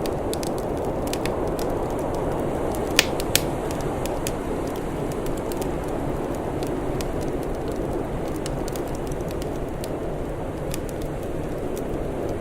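Wood fire crackling, with frequent small snaps and two louder pops in quick succession about three seconds in, over a steady low rushing noise.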